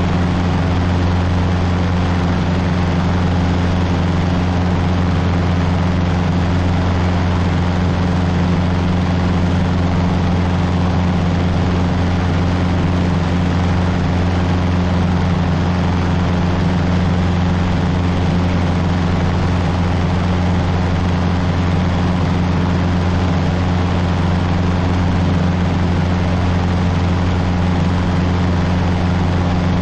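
Cessna 150's Continental O-200 engine and propeller droning steadily at cruise power, a constant low hum with hiss over it.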